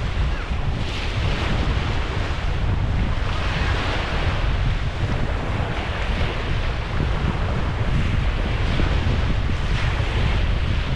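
Wind blowing across the microphone, with small surf waves washing onto the beach.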